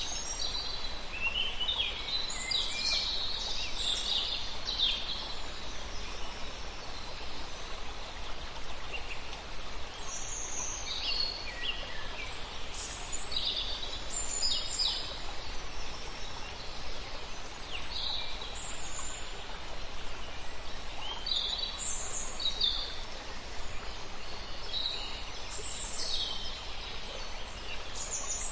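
Several wild birds calling and singing, short high chirps and trills coming every second or two, over a steady background hiss.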